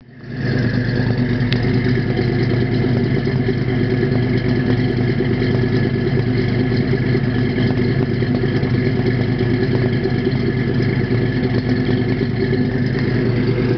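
Chevrolet ZZ4 350 small-block V8 idling steadily through new mufflers.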